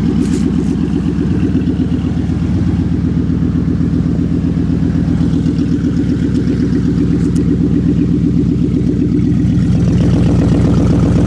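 1996 Mercury Grand Marquis's 4.6-litre V8 idling through straight-piped headers with no muffler: a loud, steady exhaust note that gets a little louder about ten seconds in.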